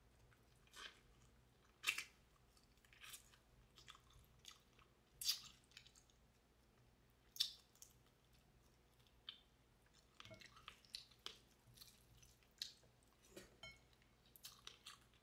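Faint, close chewing and biting of garlic fried chicken: irregular soft crunches and mouth sounds, busier in the second half.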